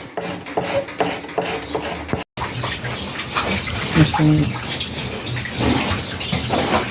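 Steady rush of splashing, running water, starting abruptly about two seconds in.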